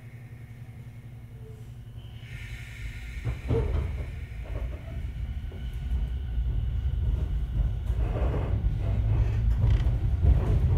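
Echizen Railway MC7001-series electric railcar (ex-JR 119 series) running: a quiet steady hum, then about three seconds in a sudden rumble and clatter of wheels on rail that keeps getting louder.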